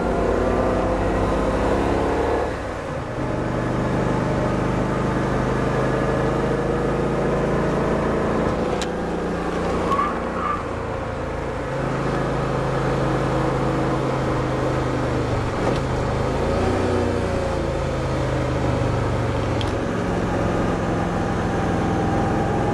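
De Tomaso Pantera's mid-mounted Ford V8 running under steady load, heard from inside the cabin. The engine note drops about two and a half seconds in, as after a gear change or lifting off, then holds steady again with a brief dip later.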